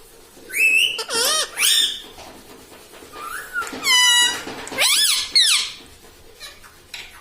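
Indian ringneck parrot giving a string of short, high squeaky calls that swoop up and down in pitch. There are about half a dozen, grouped around the first, fourth and fifth seconds.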